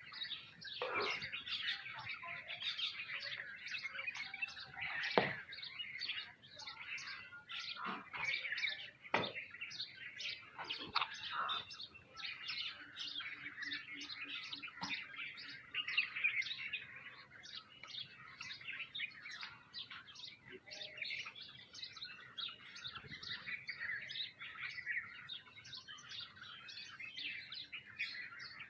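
A flock of small birds chirping and chattering continuously, many calls overlapping, with a few sharper, louder sounds in the first half.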